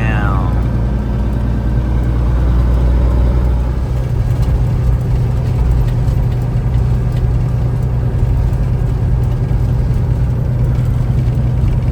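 Diesel engine of a Peterbilt 379 semi truck running steadily under way, a constant low drone heard from inside the cab. A brief falling whine sounds right at the start.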